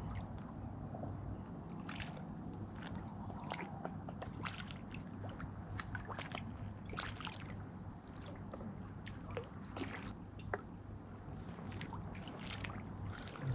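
Water sloshing and splashing with many short scattered clicks, over a steady low hum. This fits a hooked carp being played in the margin and drawn toward the landing net.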